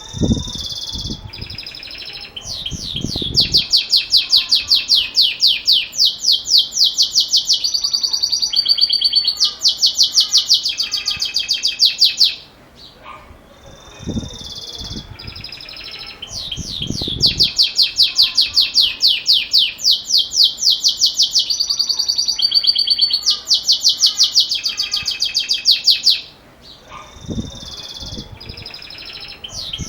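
Belgian canary singing in the metallic bell-like 'campainha' style: long phrases of fast, evenly repeated high trills, in two bouts of about ten seconds each with short pauses between. A few faint low thumps sound under the song.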